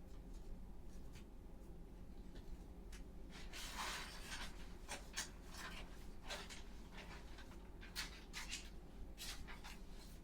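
Faint, irregular scrubbing and rubbing strokes from cleaning bathroom surfaces, with a longer stroke about four seconds in.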